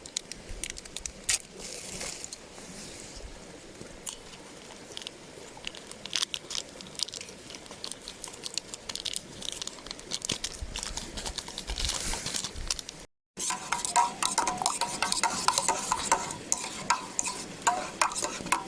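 A metal spoon stirring and clinking in a metal camping mug or pot: quick scrapes and small knocks. The sound cuts out for an instant about two-thirds of the way through, then the clinking goes on with a brighter ring.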